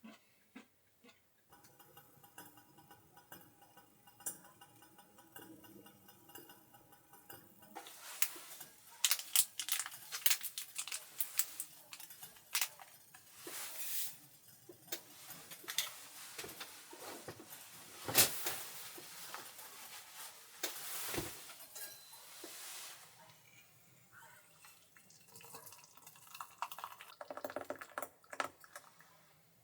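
Clinks, taps and knocks of dishes and utensils being handled, most of them in the middle stretch with one loudest knock. A faint steady hum of several tones stops about eight seconds in.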